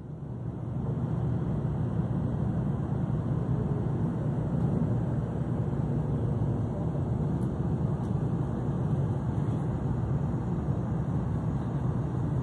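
Steady low rumble of a Shinkansen bullet train rolling along, heard from inside the carriage. It swells over the first second, then holds even.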